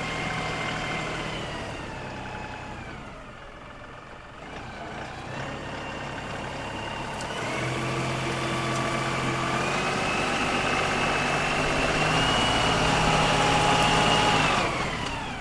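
LS XR3135 compact tractor's diesel engine running under load while digging soil, with a high whine over it. Its speed sags a few seconds in, climbs again from about eight seconds on and falls off near the end.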